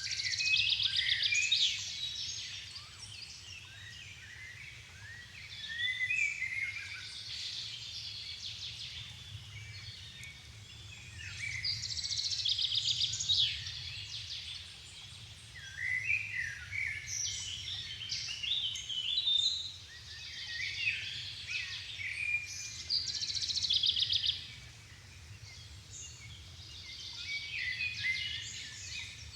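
Songbirds singing in a forest dusk chorus: bright phrases of about two to three seconds, some with fast trills, coming every few seconds. A faint steady low hum lies underneath.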